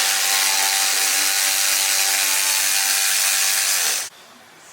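A power tool running steadily at full speed with a whine and a hiss, stopping sharply about four seconds in.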